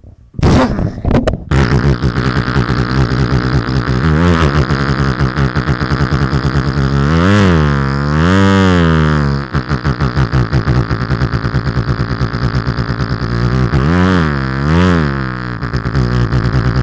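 A man's vocal impression of a dirt bike: a continuous buzzing, fluttering engine drone made with the lips and voice on one long breath. Twice the pitch swoops up and down like revs, once in the middle and again near the end.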